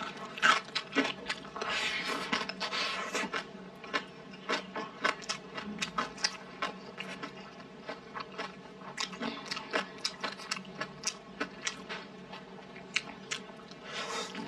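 A person chewing and biting food close to the microphone, with many short, sharp, irregular crunching clicks.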